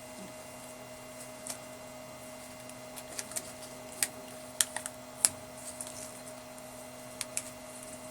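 A faint steady hum with scattered light clicks and taps, about a dozen of them, bunched in the middle and again near the end.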